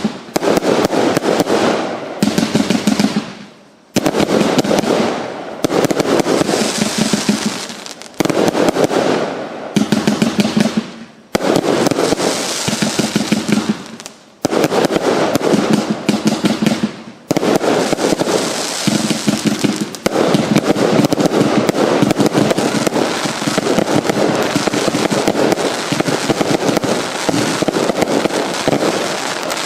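Big Rhino fireworks cake (battery) firing: a dense, rapid string of shots and crackling in volleys of two to three seconds with short breaks between them, then a longer unbroken run over the last third that stops right at the end.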